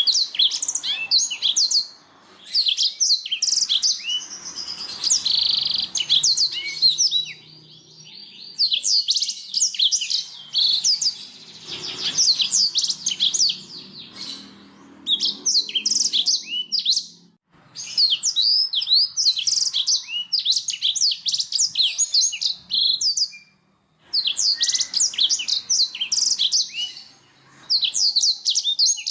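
Domestic canary singing: long runs of rapid, high chirping trills in phrases of several seconds, broken by short pauses.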